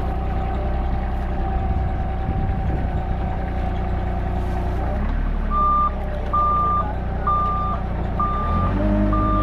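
Excavator's diesel engine running, joined about five and a half seconds in by its travel alarm beeping steadily, roughly one beep every three-quarters of a second. Near the end the engine note steps up as the machine takes more throttle.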